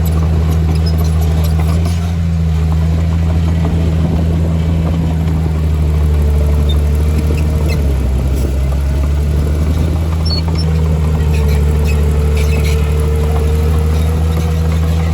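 Bulldozer's diesel engine running steadily at working speed, its note sagging briefly about halfway through and picking up again, with a faint whine and light clicks over it.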